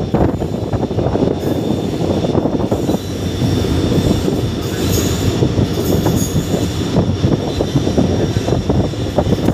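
Train running on rails: a loud, steady rumble of wheels on track, with dense, rapid clatter and a faint high steady tone above it.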